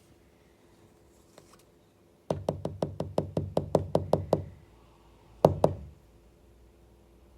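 A rapid run of about a dozen sharp knocks, about six a second for two seconds, then a pause and two more quick knocks.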